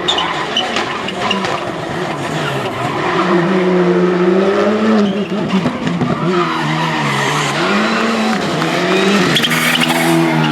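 Rally car engine on a special stage, revs rising and falling repeatedly as the driver shifts gear and lifts for corners, with tyre noise underneath.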